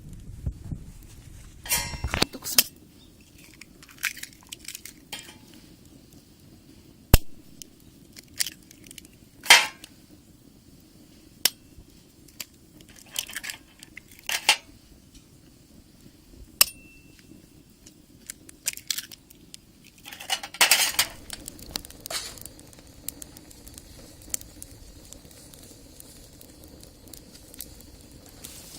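Cookware and utensils handled while cooking: scattered clinks, taps and short scrapes of utensils against pans and bowls, with a longer scrape about two-thirds of the way through.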